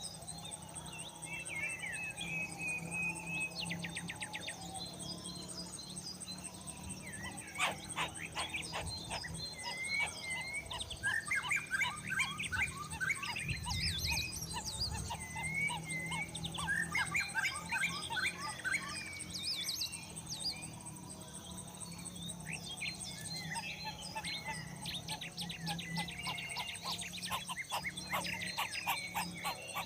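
Several birds chirping and trilling in short, varied phrases over a steady high-pitched insect buzz, with a low steady hum underneath.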